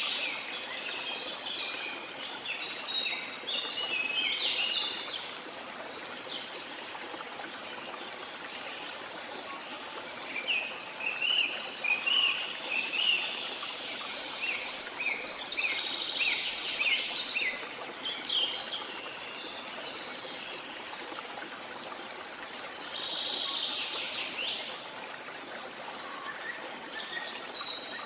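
Steady rushing of a waterfall, with birds chirping and trilling over it in several bouts: near the start, a busier stretch from about ten to eighteen seconds in, and again briefly near the end.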